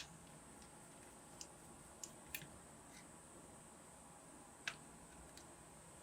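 A few faint, sharp clicks and taps of small hard parts being handled, about five scattered over a steady low hiss.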